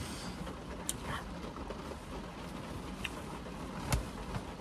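Heavy rain drumming steadily on a car's roof and windshield, heard from inside the cabin, with a few light clicks.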